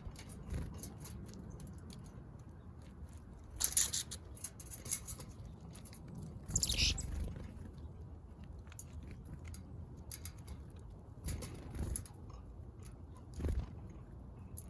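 Small backyard birds pecking at seed, heard as many light, quick clicks, with a few louder, brief wing flutters and rustles.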